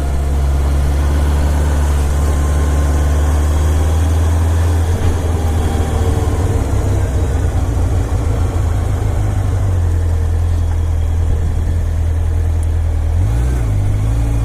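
Honda Nighthawk CB750's air-cooled inline-four engine running steadily under way through its stock exhaust, with a broad rush of wind noise; near the end the engine note dips briefly.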